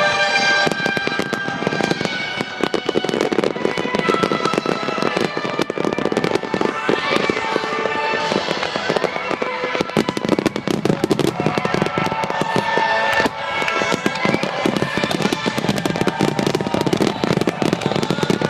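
Fireworks display: shells bursting and crackling in rapid, dense succession, over music with held notes.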